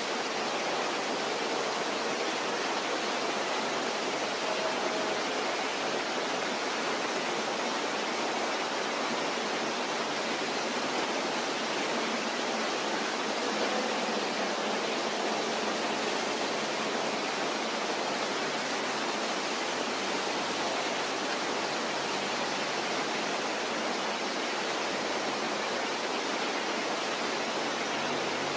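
Steady, even rushing noise in a restaurant, with no single voice or clatter standing out.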